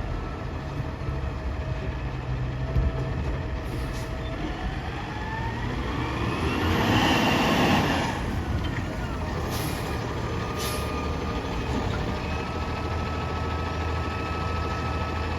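Garbage truck's diesel engine running with a whine that rises in pitch as it revs, then a loud burst of air hiss a little past halfway, typical of an air brake release. A few sharp clicks sound near the middle.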